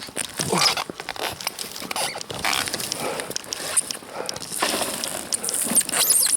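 Crunching and scraping in deep frozen snow, in irregular bursts, with clothing rustling, as a felled fir trunk is hauled through the drifts.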